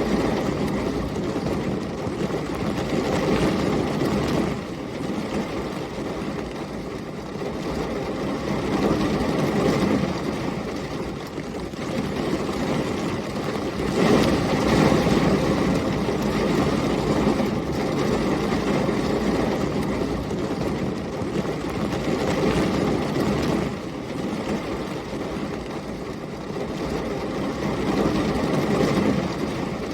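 Heavy rain and storm wind: a dense, steady rushing, heaviest in the low range, that swells and eases every few seconds, loudest about halfway through.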